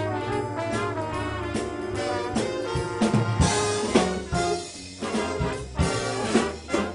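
A student band playing, led by brass (trombones and trumpets) over a drum kit, with loud drum and cymbal hits in the second half.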